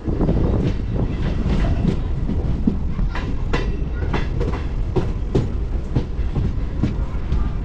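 MEMU electric train running on the line, a steady rumble with irregular clicking of the wheels over rail joints.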